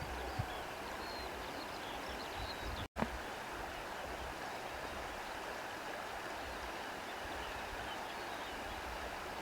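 Steady wind noise with faint, brief bird chirps, mostly in the first second or two. The sound cuts out for an instant about three seconds in.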